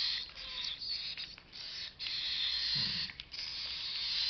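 Cockatiel chicks giving a raspy, hissing food-begging call while being hand-fed. The hiss is steady but breaks off briefly several times.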